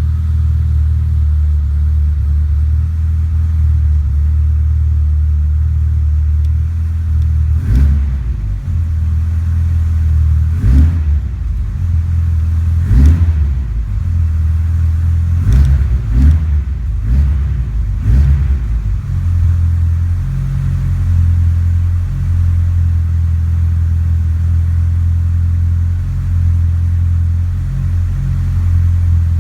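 Nissan Skyline DR30 RS-Turbo's built 2.1-litre FJ four-cylinder engine, with a TD06-25G turbo and 280° cams, running at idle. In the middle it is blipped several times in quick succession, short sharp revs, then it settles back to idle.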